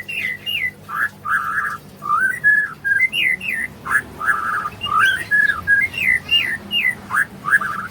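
A songbird singing a rapid, varied song of short clear whistled notes, up-and-down glides and brief buzzy trills, phrase after phrase with short gaps.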